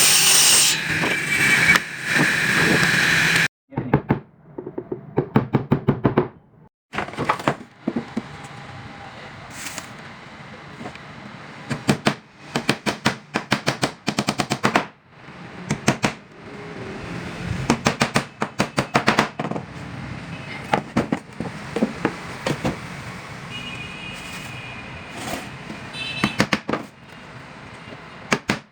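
A steady, noisy machine-like sound for the first few seconds, then repeated bursts of rapid sharp knocks, several a second, from woodwork on a wooden box.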